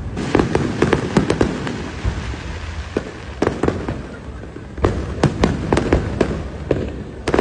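Fireworks going off: a quick volley of sharp cracks and bangs, then a lull with a few single bangs, then another volley over a steady low rumble.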